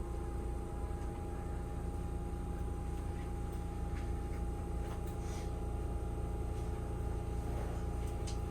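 Steady electrical hum of a stopped Keihan 3000 series electric train's onboard equipment, with a constant high tone over a low rumble and a few faint clicks.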